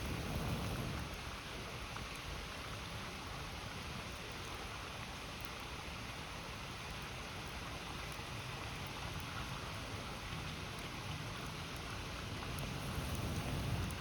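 River water rushing steadily beside a campfire, with a few faint crackles from the fire. A low rumble swells just after the start and again near the end.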